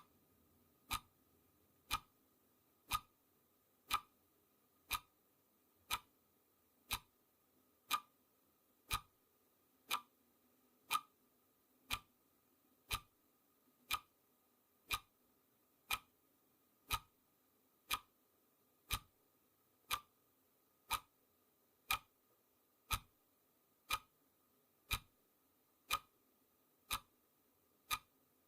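Clock ticking, one sharp tick each second.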